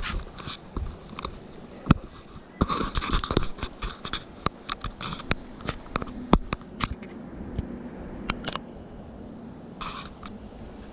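Irregular sharp clicks and knocks with some scraping, busiest in the first seven seconds and sparser after: metal parts and tools being handled during an outboard prop-shaft repair.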